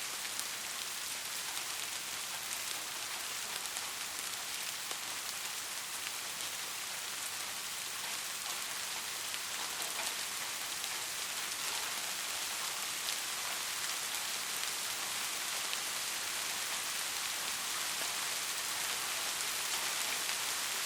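Steady rain falling, a dense hiss of drops with many fine pattering ticks, growing slightly louder toward the end; no thunder.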